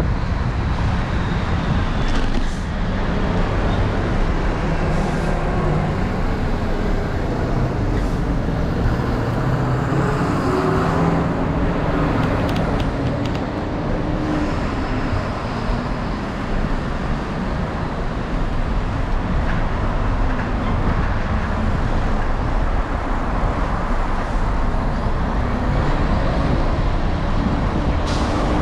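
City street traffic passing: cars, buses and trucks running, with a steady rumble of road noise throughout.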